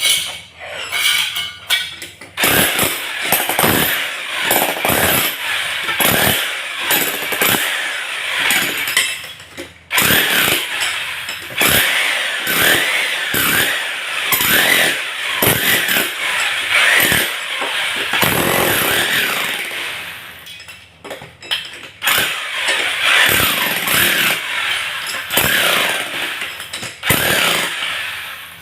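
Handheld electric power tool running loudly in short bursts, then in a long steady run with a pitch that wavers under load, stopping briefly before running again.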